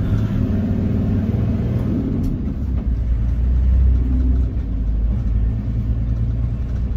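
Toyota Land Cruiser 75's engine pulling across soft sand, heard from inside the cab: a steady low rumble whose pitch shifts about two seconds in, after a gear change, and grows heavier for a second or so in the middle.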